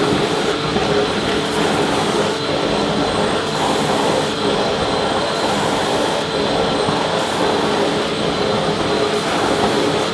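Vacuum cleaner running steadily: a continuous rush of air with a steady motor hum underneath.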